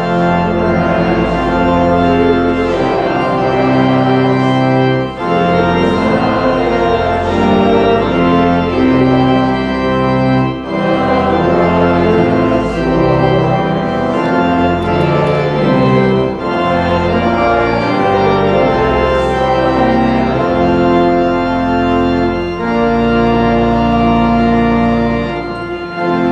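Church organ playing in sustained chords over a held pedal bass, with short breaks between phrases.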